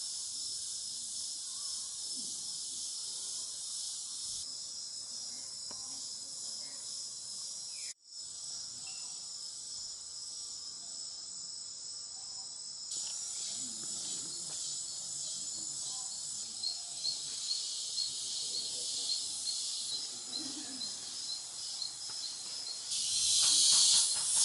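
Rainforest insect chorus: a steady high-pitched buzzing and trilling of crickets and other insects that shifts abruptly a few times, with a rapid repeated chirping in the middle and a louder, denser stretch near the end.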